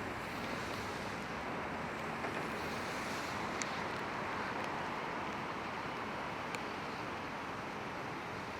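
Steady hiss of falling rain, with a few sharp taps of single drops.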